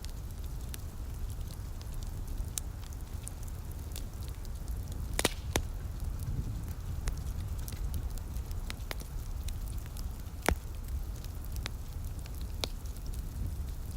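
Wood fire crackling in a fireplace: irregular sharp pops and snaps, the loudest about five seconds in and again near ten and a half seconds, over a steady low rumble.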